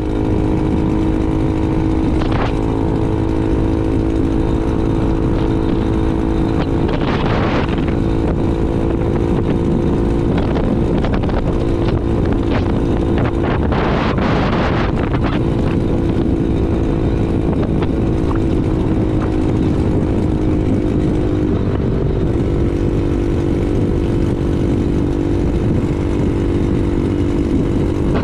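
2022 Honda Navi's small single-cylinder engine running at a steady cruising speed, with wind rushing over the microphone. A few brief whooshes come through, the loudest about 14 seconds in.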